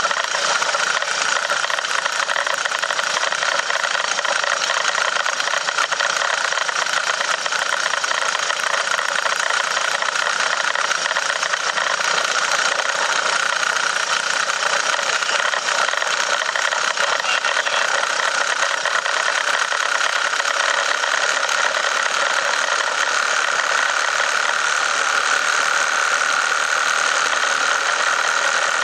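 1917 Model T Ford's four-cylinder engine running steadily under load, pulling up a long grade in high gear, heard from inside the car.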